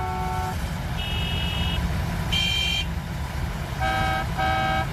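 Several car horns honking in turn, each a different pitch, over the steady low rumble of idling engines, like a queue of impatient cars.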